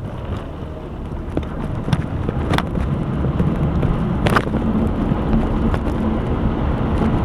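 Low, steady rumble of a motor vehicle's engine, growing louder, with a hum coming in about halfway through and a few sharp clicks.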